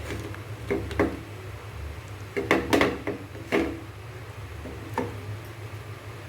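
Kitchen utensils knocking and clinking against cookware while pakodas are put in to fry: a few scattered knocks with a quick cluster about two and a half seconds in, over a steady low hum.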